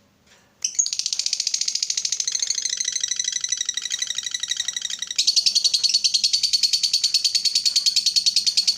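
Lovebird giving its long 'ngekek' chatter: a rapid, evenly pulsed high trill that starts under a second in and gets louder about five seconds in.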